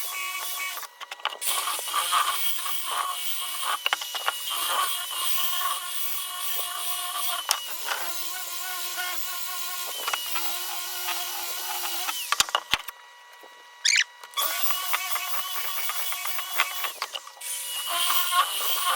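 Electric rotary polisher fitted with a 120-grit hook-and-loop sanding disc, sanding the underside of an old demolition-wood beam: a steady motor whine over the scratch of abrasive on wood. It cuts out briefly about a second in and again for about two seconds past the middle.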